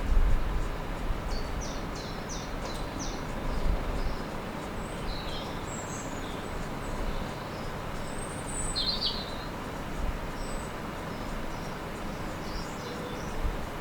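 Small birds chirping and singing in short calls, over a steady low rumble.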